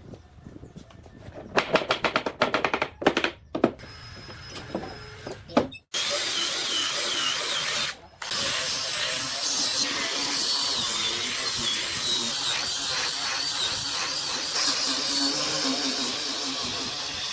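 A run of sharp knocks and taps, then a power tool starts about six seconds in and runs steadily with a wavering whine. It cuts out briefly about two seconds after starting.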